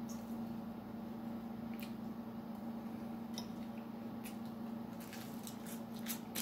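Wet, squishy mouth sounds of someone chewing a soft cinnamon roll, with scattered light clicks of a metal fork on the plate, over a steady low hum.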